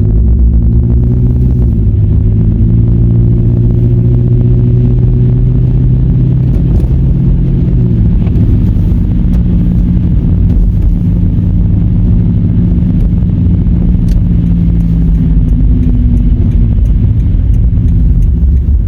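Car engine and road noise while driving: a steady low hum whose pitch shifts slightly about two seconds in and again around eight seconds.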